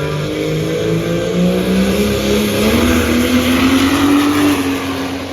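Diesel truck engine under hard acceleration, its pitch climbing steadily for about four seconds and then levelling off near the end.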